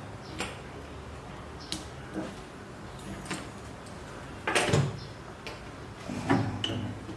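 Scattered knocks and clinks of machined metal parts being handled and fitted during assembly of the CNC Z axis, as the motor is set in its mount and locked down. The loudest is a cluster of knocks about four and a half seconds in.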